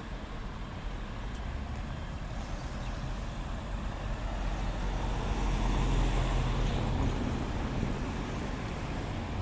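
Road traffic noise with a low rumble. It builds to a peak about six seconds in, like a vehicle passing close by, then eases off.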